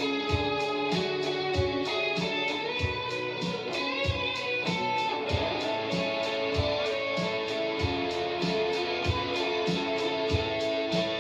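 Live rock music: electric guitar playing over a steady drum beat, with no singing.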